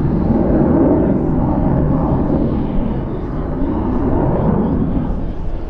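Jet noise from the B-2 Spirit stealth bomber's four turbofan engines as it flies past: a loud, steady deep rumble whose tone shifts slowly.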